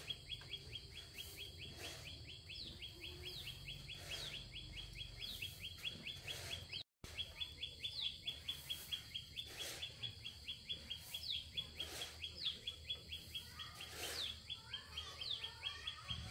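Birds chirping: a fast, even run of high chirps with a short falling call repeated about once a second. Faint knocks come every second or two, and the sound drops out briefly about seven seconds in.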